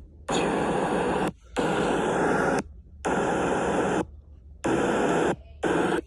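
Loud static-like hiss that cuts out abruptly into short gaps and comes back, several times over.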